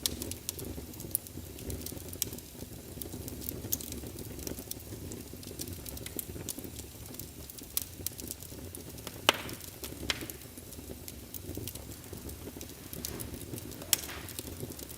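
Wood logs burning in a fireplace: a steady low rumble with scattered crackles and small pops throughout. A sharper pop comes a little past halfway, and another comes near the end.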